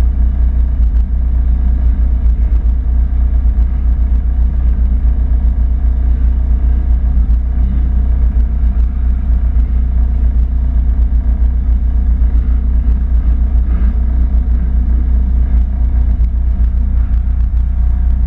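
Drag-race car's engine idling steadily, heard from inside its stripped-out cabin: loud, even and low-pitched, with no revving.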